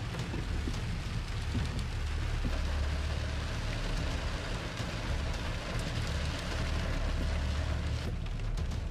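Rain falling on a car's windshield, heard from inside the car over a steady low rumble from the vehicle on the road.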